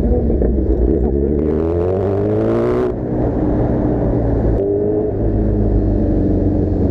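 Kawasaki Z1000's inline-four engine through an Arrow full-system exhaust, revving up with a rising pitch for about two seconds, dropping off sharply about three seconds in, then pulling again over a steady low rumble.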